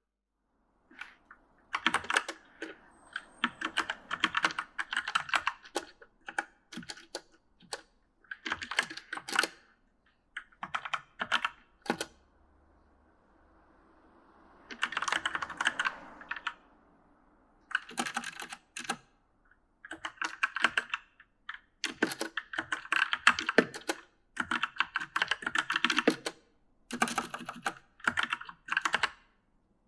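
Mechanical gaming keyboard being typed on, the keys clattering in quick bursts of a second or two separated by short pauses.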